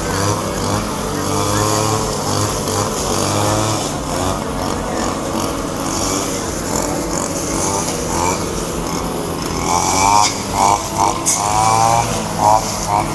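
Two-stroke brush cutters (string trimmers) running and cutting grass, their engine pitch wavering up and down as they rev under load, with voices in the background.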